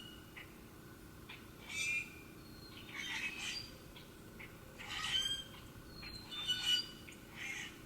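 Wild birds calling: about five short, harsh squawks spaced a second or so apart, with thin, high whistled notes between them.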